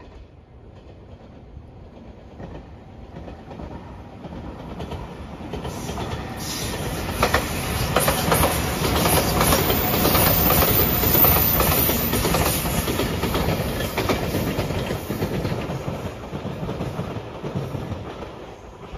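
JR Shikoku 8000 series electric limited express passing on the rails, its wheels clacking over the rail joints. It builds up over the first few seconds, is loudest around the middle, then fades away near the end.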